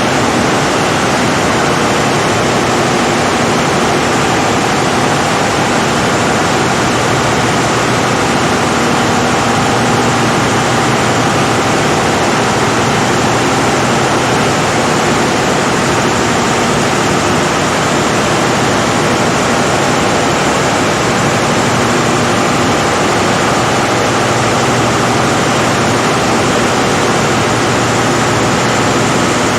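Caterpillar 3516B V16 diesel generator-set engine running steadily at constant speed: a loud, even noise with faint steady hum tones in it and no change in speed.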